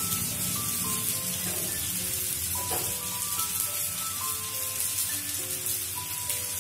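Breaded onion rings sizzling and crackling in hot oil in a frying pan. Background music of short, stepping notes plays along.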